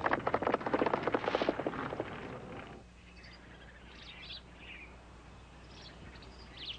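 A loud, dense, fast-pulsing sound fades out in the first few seconds. Then small birds chirp in short, scattered calls over a quiet background.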